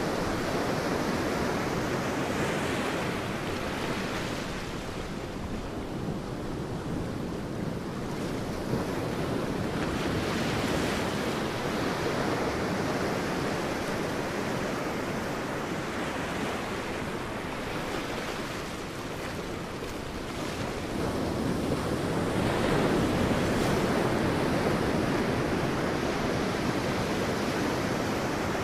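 Sea waves breaking and washing up a beach, a steady rushing surf that swells and ebbs every several seconds, loudest near the end.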